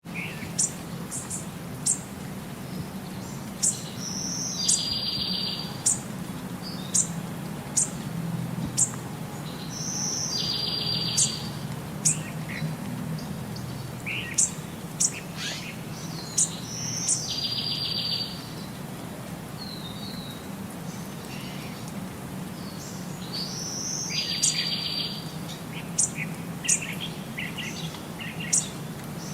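Small birds chirping, with short high chirps throughout and a buzzy, trilled call that comes back at even intervals about every six to seven seconds, over a steady low hum.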